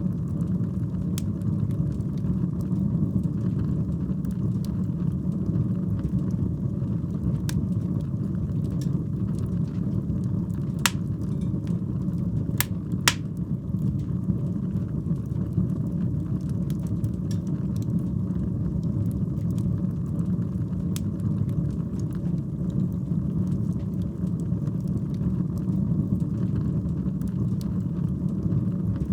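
Fire burning in a fireplace: a steady low rushing sound with scattered crackles, and a few louder sharp pops about midway.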